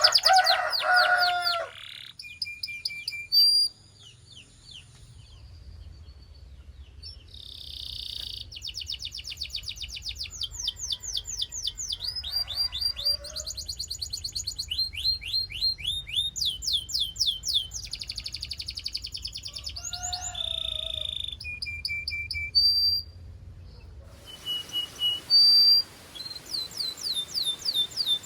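Belgian canary singing: fast trills of repeated down-slurred whistled notes, phrase after phrase with short pauses between them and a few lower, held notes mixed in.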